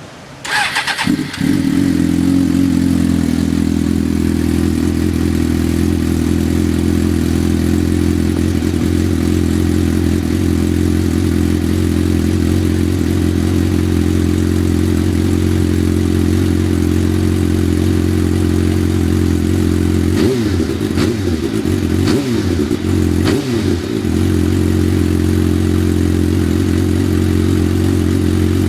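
2004 Suzuki GSX-R600 inline-four engine with a Striker aftermarket exhaust, starting about a second in and then idling steadily. About two-thirds of the way through it is blipped a few times in quick succession, then settles back to idle.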